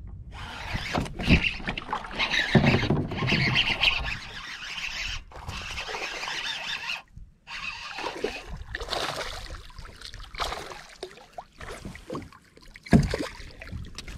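Handling and water noises in a kayak: irregular splashing and rustling, with a sharp knock about a second in and another near the end.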